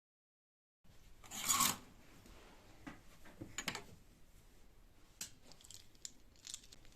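Handling noise: one short, loud scraping or tearing sound, then light clicks and rustles.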